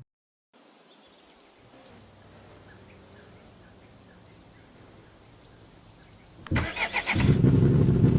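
Faint outdoor background with small bird chirps, then about six and a half seconds in a truck engine cranks briefly and starts, running loud with a low rumble.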